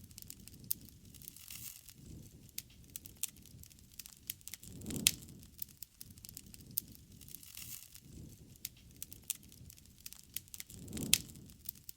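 Wood campfire crackling, with frequent sharp pops and snaps. The loudest pops come about five seconds in and again near the end, each with a soft low rush of flame.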